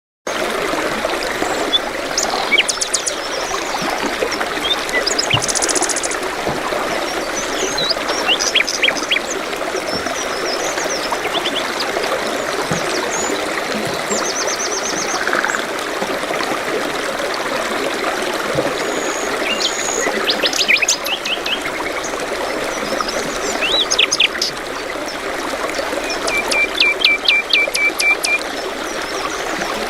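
Steady trickling of running water, with small birds chirping and trilling over it throughout; a fast repeated trill near the end.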